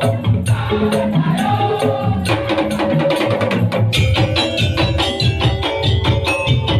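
Madurese daul (tongtong) percussion music: a melody over a fast, steady beat of bamboo slit drums and drums, the percussion growing denser and brighter about four seconds in.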